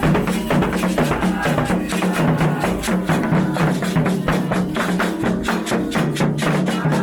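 Candomblé ritual percussion: drums and a struck bell or other hard percussion playing a fast, steady rhythm.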